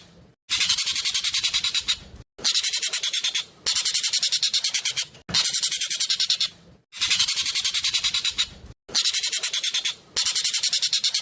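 Ekek keling (jovin) bird song from a masteran training recording: a loud, fast rattling chatter of sharp high notes, about a dozen a second. It comes in phrases of roughly a second and a half, repeated over and over with brief pauses between them.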